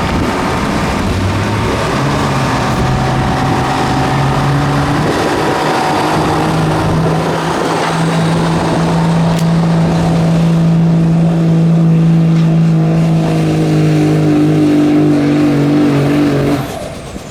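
A pulling truck's engine at full throttle, dragging the sled down the track. The pitch steps up about two seconds in, holds high and climbs slowly, then the engine sound drops away suddenly near the end as the pull finishes.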